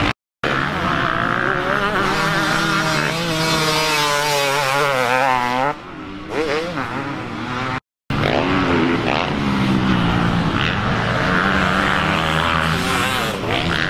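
Motocross bike engines on a dirt track, revving hard, their pitch climbing and dropping as the riders accelerate and shift. The sound breaks off briefly twice at edit cuts.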